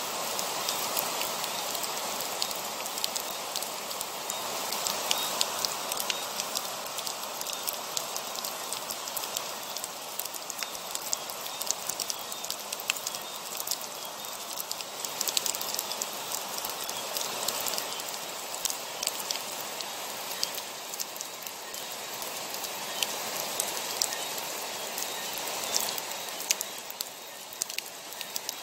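Heavy rain falling steadily: a dense hiss with many sharp ticks of drops striking a near surface, gently swelling and easing every several seconds.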